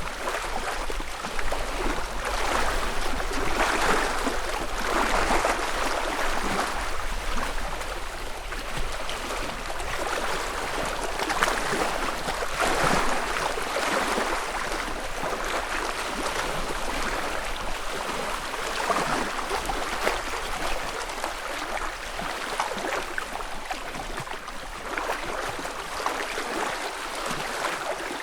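Small lake waves lapping at the shore, a soft wash that swells and eases every second or two.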